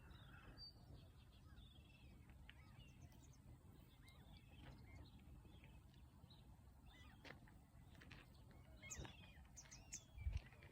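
Faint birdsong: many short chirps and twittering calls over a low outdoor rumble, with a few soft knocks and thumps near the end.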